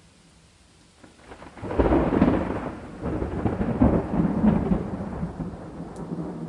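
Thunder breaks about a second and a half in and rolls on in several rumbles, rising and falling, over a faint steady hiss of rain.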